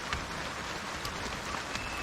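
Steady rain falling in a garden, with individual drops clicking, the sharpest just after the start. A thin, steady high whistle begins near the end.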